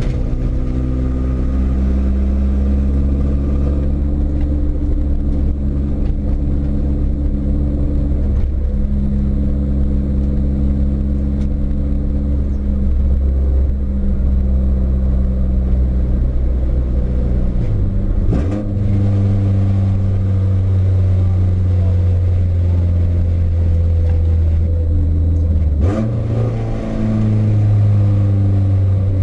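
Renault Clio 172's 2.0-litre four-cylinder engine pulling hard on track, heard from inside the stripped-out cabin, its note held steady for long stretches. The note breaks and changes pitch abruptly twice, about two-thirds of the way through and again near the end, as with gear changes.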